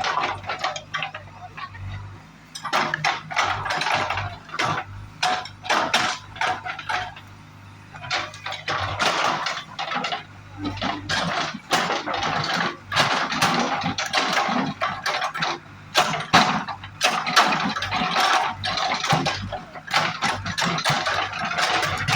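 Diesel engine of a tractor or JCB running steadily at low speed, with frequent sharp clatters and knocks over it.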